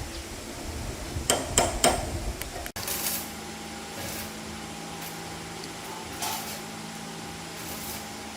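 Three sharp metal strikes about a third of a second apart, like a hammer on metal, then an abrupt cut to a steady low hum with a few brief faint noises.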